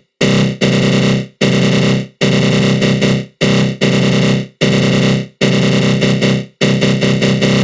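Synthesized growl sound effect, made with the GMS synth and a flanger: a loud, dense buzz with a rapid flutter, in repeated bursts of half a second to a second, each cut off abruptly by a short gap.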